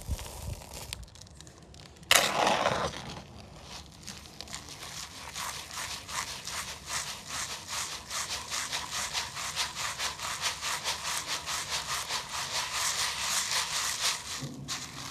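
Gritty cement powder being sifted, a fast run of scratchy rasping strokes, about four or five a second, after a short loud rush of grit about two seconds in.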